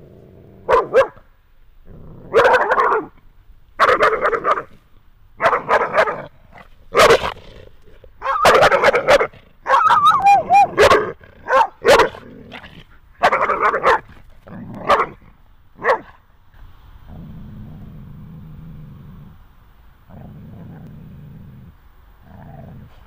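Leashed Labrador–Malinois cross barking at another dog, a run of about a dozen loud barks, some drawn out: fearful, defensive barking from a timid dog. The barks give way to low growling near the end.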